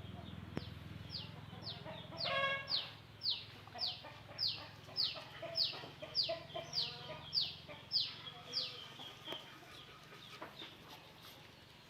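Chick peeping: a run of short, high calls, each falling in pitch, about two a second, which fade out near the end. A steady low hum lies underneath.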